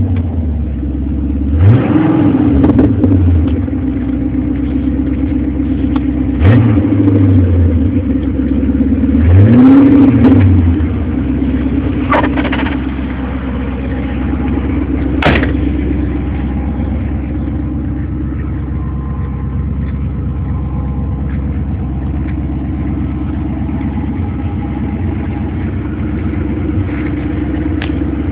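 1984 Ford Thunderbird's fuel-injected 5.0-litre V8 revved up and let back down three times, then settling into a steady idle. A couple of sharp clicks come in as it settles.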